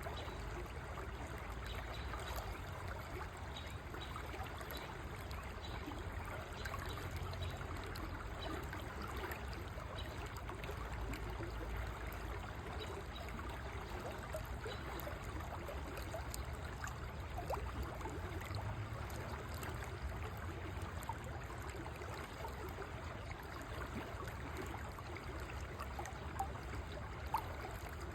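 River water flowing and babbling steadily, with a brief sharper splash near the end.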